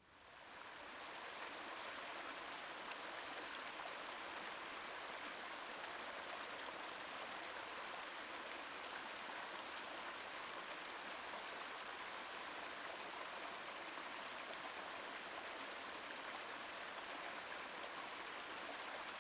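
Small river cascading over rocks: a steady rush of water that fades up over the first second or so, then holds even.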